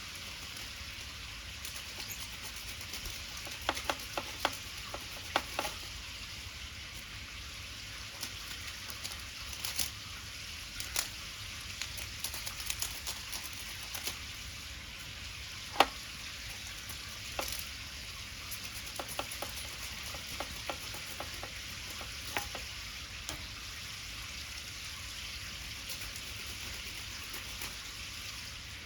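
Cooking over a wood fire: a steady sizzling hiss with scattered sharp crackles and pops, the loudest about sixteen seconds in.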